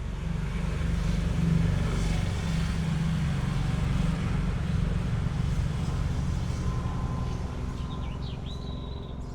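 Low engine rumble of a passing vehicle, swelling over the first couple of seconds and slowly fading. A bird chirps a few times near the end.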